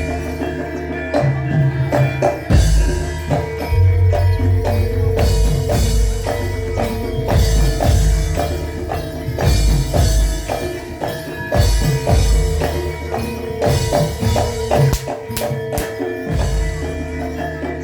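Live accompaniment music of a Javanese imblig (kuda lumping) troupe: steady, rhythmic drumming and percussion over held ringing tones.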